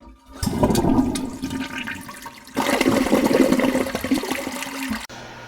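Rushing water that starts about half a second in, changes character about halfway with a steady hum underneath, and cuts off suddenly near the end.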